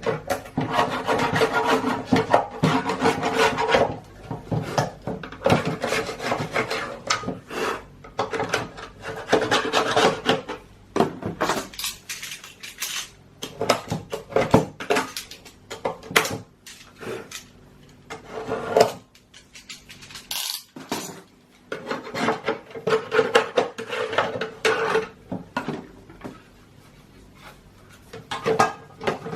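Hand tool scraping leftover old silicone sealant off a Tofaş headlight housing, in bouts of quick rasping strokes with short pauses between them.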